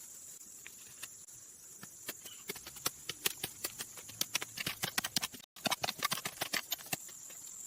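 A rapid, irregular run of sharp clicks and knocks, thickening from about two seconds in and thinning out near the end, over a steady high-pitched hum.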